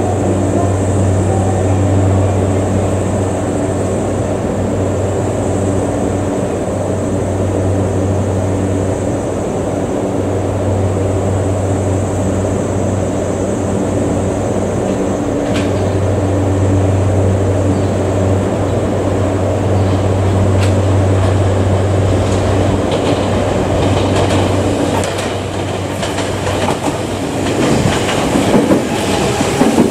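A steady low hum, then a Tokyo Metro 8000 series train coming in close by over the last few seconds, its wheels clacking over the rail joints.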